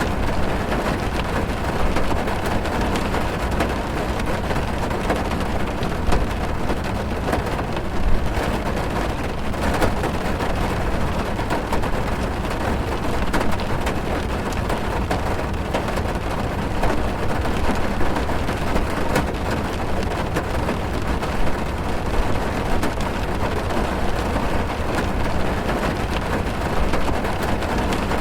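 Heavy rain drumming on a car's roof and windows, heard from inside the cabin: a steady dense patter with a deep low rumble and occasional louder drop hits.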